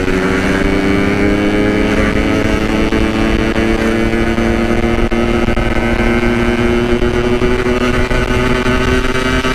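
Yamaha RX-King's two-stroke single-cylinder engine running while riding, its pitch rising slowly and steadily.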